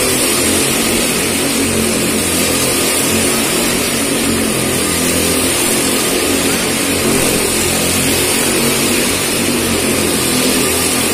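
Motorcycle engine running steadily as the bike rides around a wall-of-death drum, its pitch and loudness holding fairly even.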